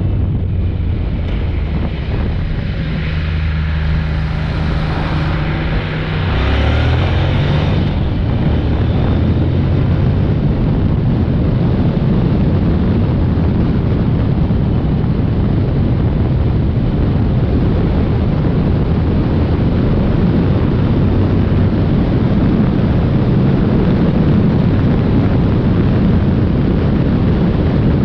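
Honda NC750X parallel-twin engine running on the move. Its steady note rises in pitch about six seconds in. After that, heavy wind rush on the microphone covers most of the engine.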